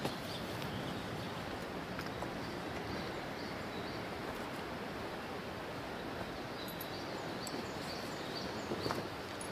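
Outdoor forest background: a steady rushing noise, with a few faint, short, high bird chirps about two-thirds of the way in and an occasional faint click.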